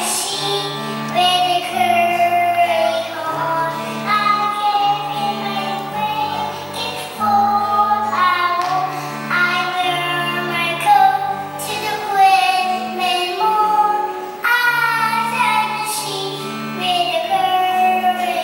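A child singing a song over an instrumental accompaniment of held chords that change every second or so.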